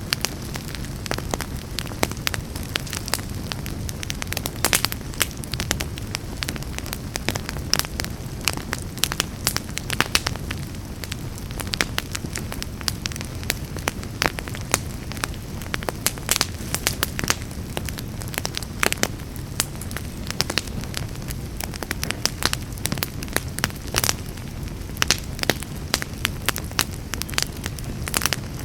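Fire burning in a fireplace, crackling: many sharp, irregular pops and snaps over a steady low noise from the flames.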